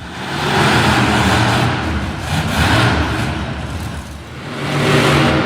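Monster truck engine revving hard in surges, getting louder and dropping back about three times.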